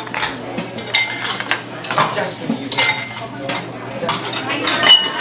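Ceramic dishes and cutlery clinking in a busy restaurant: a string of sharp clinks, several with a brief ringing tone, the loudest just before the end.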